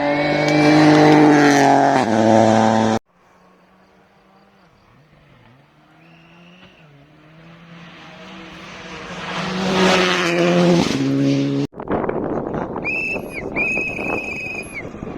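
Rally car engines at full throttle in three cut-together passes: an engine at high revs with quick gear changes, then another car heard from afar, growing loud as it passes and changing gear, then a noisy rush of tyres on the road surface with a high whistle near the end.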